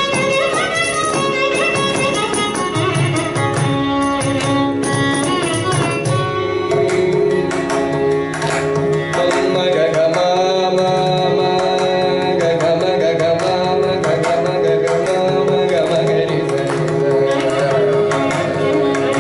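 Carnatic music: a melodic line on voice and violin over a busy mridangam rhythm. The melody moves quickly for the first few seconds, then settles into longer, held notes.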